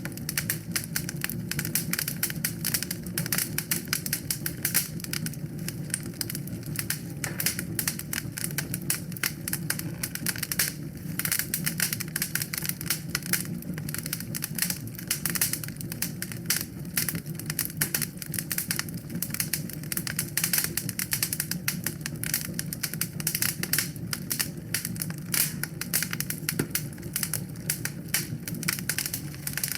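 Fire burning in a fireplace, crackling with dense, irregular snaps and pops over a steady low rumble of the flames.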